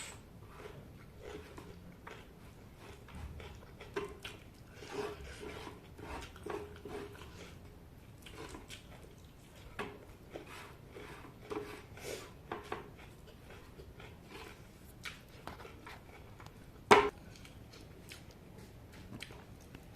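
A person eating cooked chicken close to the microphone: soft chewing with scattered small clicks. One sharp knock comes about seventeen seconds in.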